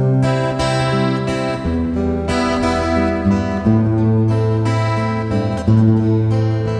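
Live acoustic guitar strumming chords of a Korean folk-pop ballad, over held low notes that shift every second or two.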